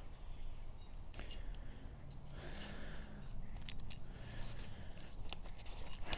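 Handling noise from a metal object being picked over: scattered light clicks and soft rustles, ending in a sharp metallic clink that rings briefly.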